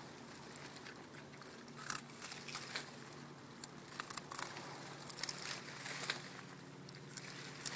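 A dog biting and chewing raw broccoli off the plant: irregular crisp crunches, some sharper snaps among them.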